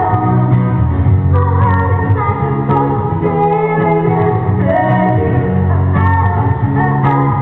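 Female vocal duo singing a pop love song live, backed by instruments, with guitar among them.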